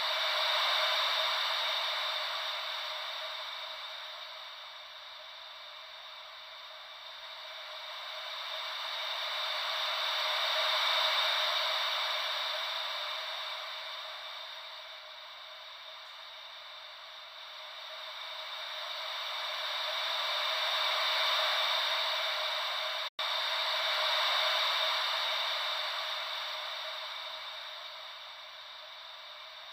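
Ocean-wave white noise: a steady hiss with no low rumble, swelling and fading slowly about every ten seconds like gentle waves. It cuts out for an instant about 23 seconds in.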